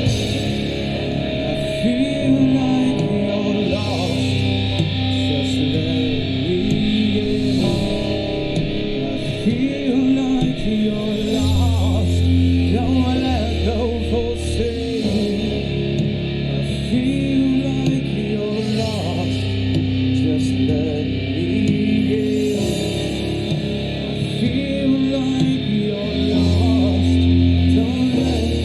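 A rock band playing live: electric guitar over long, sustained bass notes that change every few seconds, with some singing.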